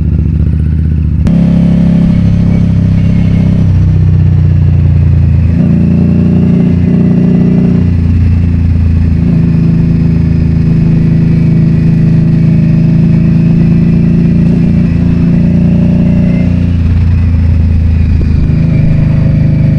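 Motorcycle engine running under way, its note holding steady for stretches and shifting up and down in steps as the throttle changes, getting louder about a second in.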